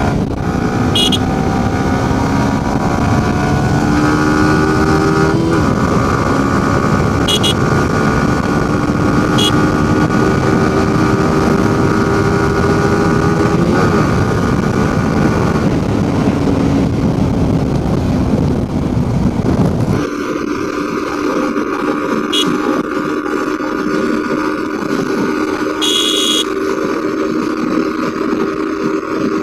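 Motorcycle engine running under way, its pitch climbing and falling as the rider accelerates and changes gear, over a low wind rumble. About two-thirds of the way through the rumble drops away suddenly, leaving a steadier engine note.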